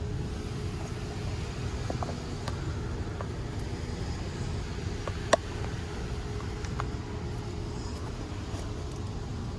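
Central air conditioner condenser units running with a steady low hum and whir. There is one sharp click about five seconds in.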